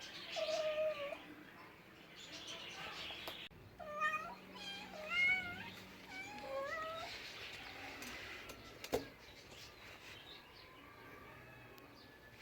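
A domestic cat meowing: one drawn-out meow about half a second in, then a quick run of about six short, chattering meows a few seconds later. A single sharp click comes after the meows.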